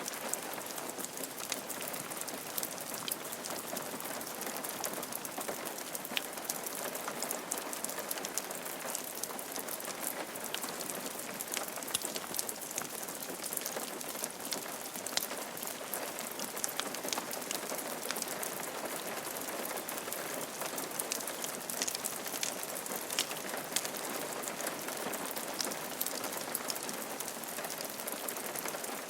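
Steady rain falling on a roof, a constant patter with many individual drops ticking through it.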